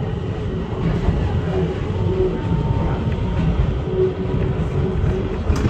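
Ichibata Electric Railway train running, heard from inside the car: a steady rumble of wheels on the rails with a faint steady whine, and a single sharp clack near the end.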